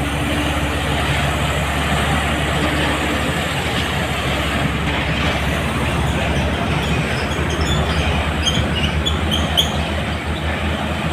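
Heavy diesel truck climbing a steep grade: a steady low engine rumble under load, with tyre and road noise. A run of short, high squeaks comes in about seven seconds in.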